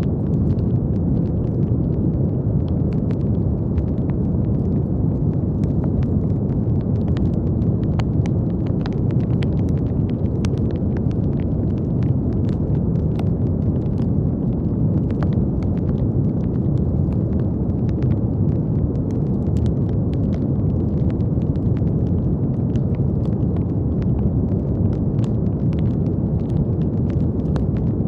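Continuous brown noise: a steady, deep, rumbling hiss weighted to the low end, with faint, scattered tiny clicks throughout.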